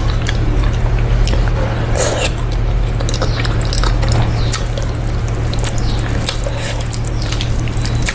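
Wet squelching and quick clicks from a chicken leg piece, over a steady low hum.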